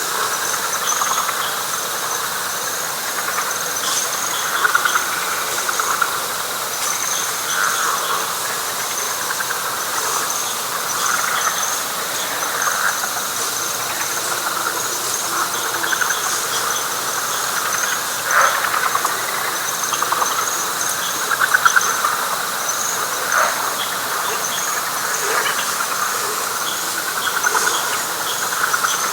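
Night chorus of frogs and insects: a steady, high pulsing insect trill over a pulsing frog chorus, with a few louder calls standing out in the second half.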